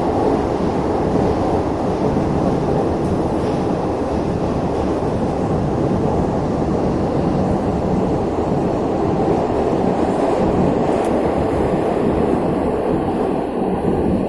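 Neva metro train heard from inside the car while running between stations: a loud, steady rumble of wheels on rails, with a faint steady hum under it.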